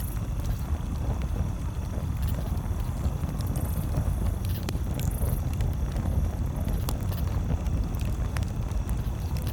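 Campfire crackling: scattered sharp pops and snaps at irregular moments over a steady low rumble.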